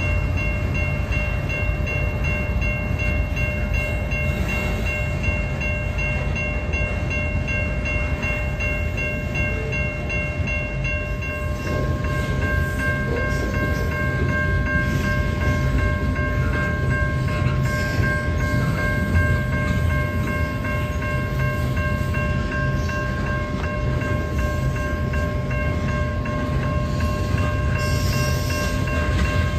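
Loaded covered hopper cars of a long freight train rolling past: a steady low rumble of wheels on rail, with several thin, high, steady tones held over it.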